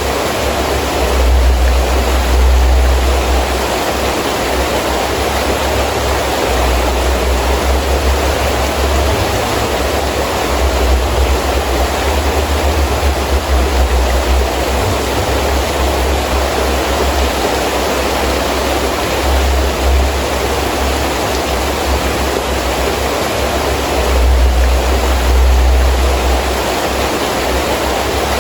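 Heavy rain falling steadily with gusting wind; a low rumble swells a few times as the gusts strengthen.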